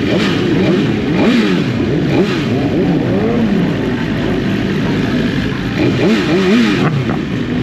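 Several sport motorcycle engines revving, their pitch rising and falling over and over and overlapping one another.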